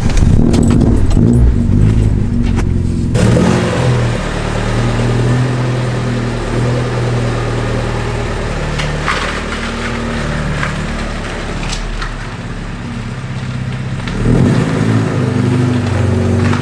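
1975 Alfa Romeo GTV's twin-cam four-cylinder engine running. It is revved near the start and again about 14 seconds in, with a few sharp clicks in between.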